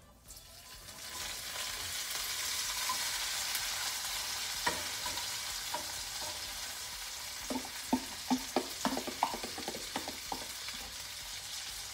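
Chicken sizzling in hot oil in a frying pan: a steady hiss that fades up over the first second or two, with a run of short clicks and knocks of a utensil between about seven and ten seconds in.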